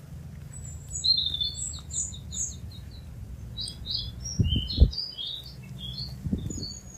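A small bird singing a quick run of high chirps and twitters, first a string of even repeated notes, then more varied ones. Low dull thumps come about four and a half seconds in and again near the end, over a low rumble.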